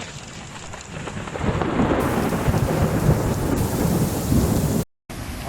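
Thunder rumbling over steady rain, swelling over the first second and a half and breaking off briefly near the end.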